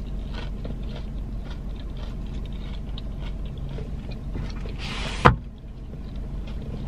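A person chewing food, with faint wet clicks, over a steady low hum in a car cabin. About five seconds in, a brief rustle ends in a single loud thump.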